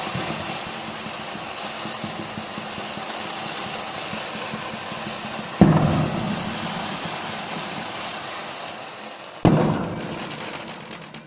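Two loud firework bangs about four seconds apart, each dying away in a rolling echo, over a steady crackling hiss.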